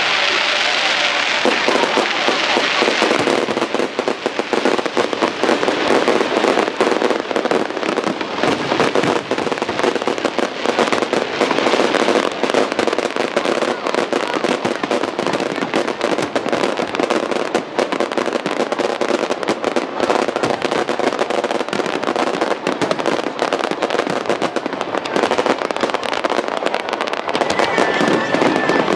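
Fireworks display: a dense, continuous barrage of bangs and crackles from exploding shells, with no let-up.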